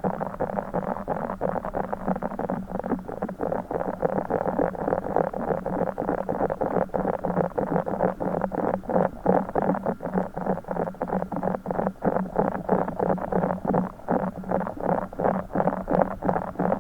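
A broken Orbeez stress ball being squeezed and squished close to the microphone, making quick wet squelching sounds several times a second without a break.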